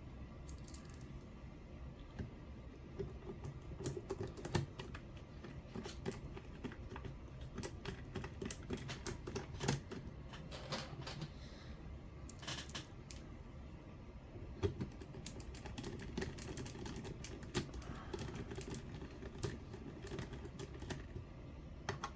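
Irregular light clicks and taps of small RC car steering parts and tools being handled and fitted together by hand.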